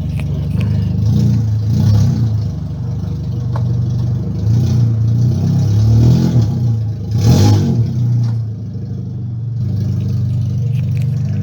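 Dodge Dakota V6 with its muffler deleted, revved several times and settling back to idle about three-quarters of the way through. The loudest rev comes just before it settles.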